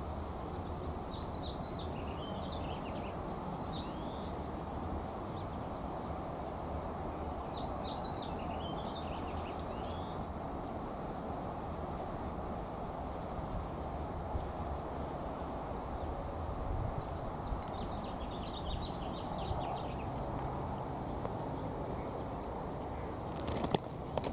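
Small tit birds twittering in short bursts of chirps, with three thin, high notes about two seconds apart midway, over a steady background hiss. A brief sharp clatter near the end.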